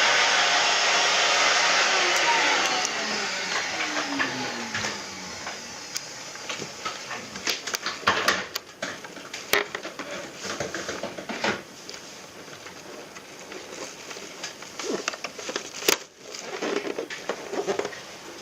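An electric motor, running loud and steady, is switched off and winds down over about three seconds, its whine falling in pitch. Scattered clicks and knocks follow.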